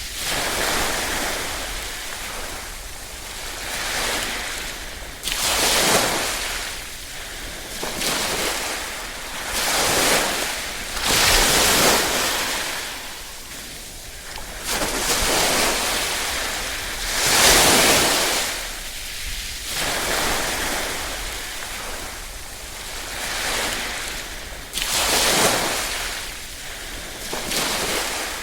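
Small waves lapping and washing onto a shore. Each wash swells and fades in turn, about every two to three seconds.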